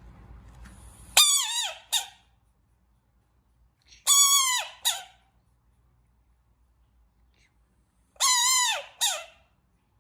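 Frog calling three times, about four seconds apart: each call is a squeaky, falling note followed by a short second note.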